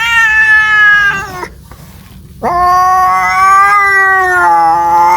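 A domestic cat yowling in two long, drawn-out calls. The first swoops up in pitch and breaks off after about a second and a half; the second starts about halfway through and is held steadily. It is the caterwaul of a cat calling for a mate.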